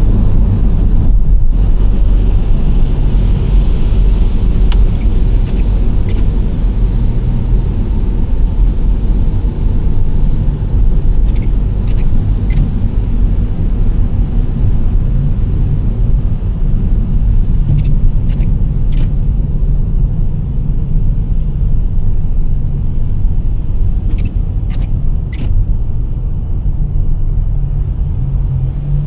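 Nissan Serena C25 minivan driving, a steady low rumble of engine and tyres on the road. Short faint clicks come in little groups of about three, roughly every six or seven seconds.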